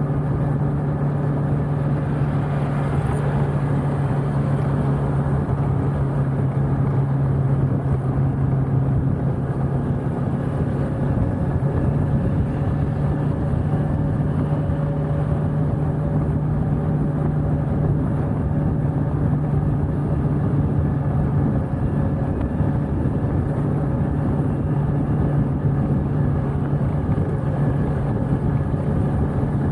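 Motorcycle engine running at a steady cruising speed, with a slight change in pitch about a third of the way in, recorded through the Insta360 One R camera's wind-noise reduction.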